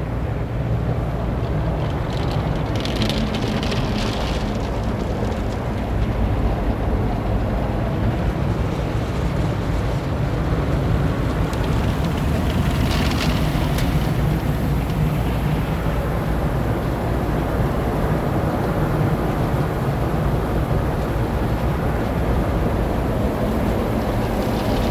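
Automatic soft-cloth car wash working over a van, heard from inside the cabin: a steady rumble of spraying water and machinery, with two brief hissing swells about 3 and 13 seconds in.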